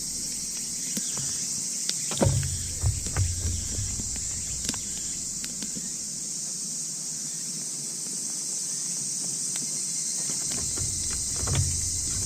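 Steady high chirring of crickets and other night insects, with scattered sharp crackles and pops from a campfire burning pine cones, and a few low bumps.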